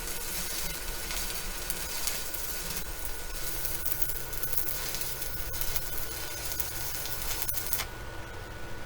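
Arc of a Deko inverter welder running at about 93 amps on 120 volts, a steady hiss with a fine crackle as a weld fills a hole in the steel mower deck. The arc breaks off sharply about a second before the end.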